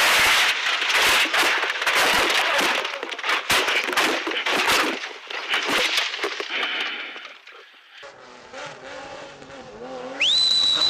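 A rally car crashing: about five seconds of loud crashing and scraping with many sharp knocks, dying away over the next few seconds. Near the end a shrill whistle rises and holds on one high note.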